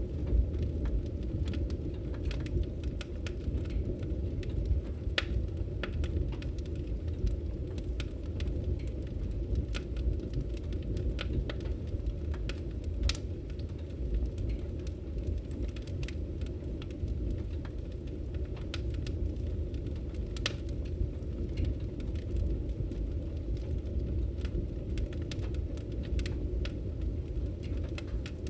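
Fire burning in a fireplace, crackling with irregular sharp pops over a steady low rumble of flames.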